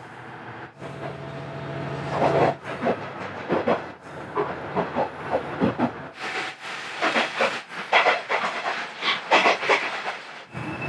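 Diesel railcar running on the line: a steady engine hum at first, then the clatter and clicking of the wheels and the rattling of the carriage.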